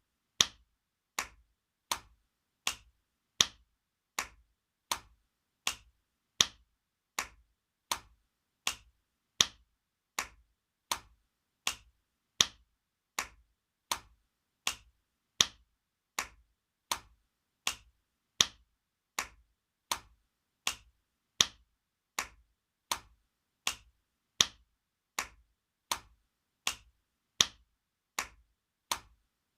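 Spanking sound effect: sharp slaps repeated at an even pace, about three every two seconds, some hits louder than others.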